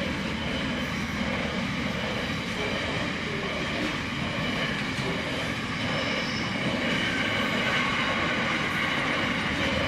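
Freight train passing: a steady rumble of wheels on rail.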